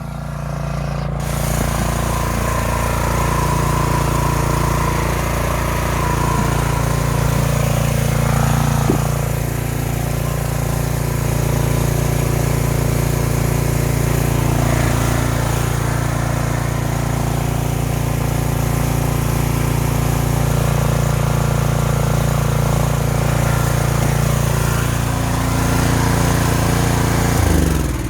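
Wilks TX850 pressure washer's engine running steadily, then winding down and stopping near the end. The pump is delivering no pressure: water only trickles from the outlet.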